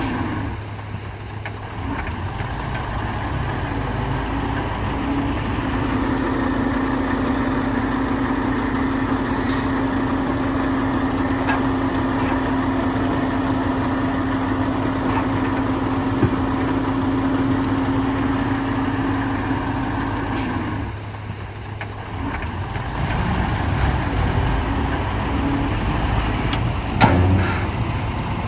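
Heavy diesel engine of earthmoving machinery running under steady load, with a constant drone. It drops off briefly about three-quarters of the way through and then picks up again, with a few sharp knocks near the end.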